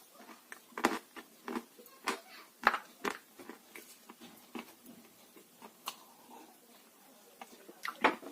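Dry chunks of blue Uzbek clay crunching in close, irregular sharp crunches and crackles, with quieter ticks between a handful of louder crunches.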